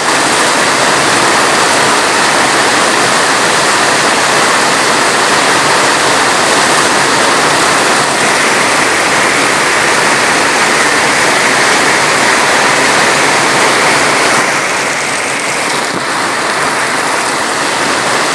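Steady rainfall, a dense even hiss, easing slightly in level about four seconds before the end.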